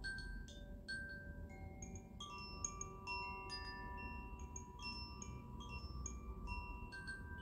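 Chimes ringing in a loose, irregular tinkling, several struck notes a second overlapping and sustaining.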